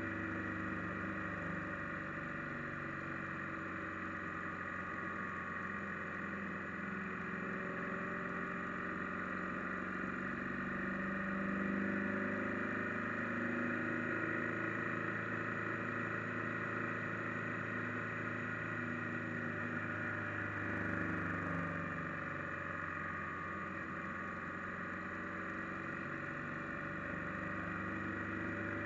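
Motorcycle engine running steadily while riding along a road. Its pitch drops and climbs again about twenty seconds in as the bike slows and picks up speed.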